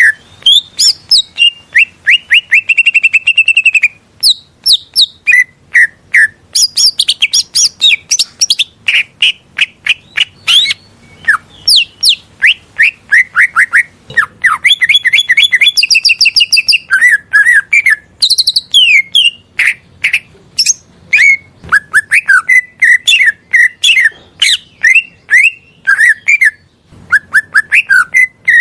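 Green leafbird (cucak ijo) singing a long, rapid stream of varied chirps, sweeping whistles and trills, almost without pause, with short breaks about four seconds in and near the end.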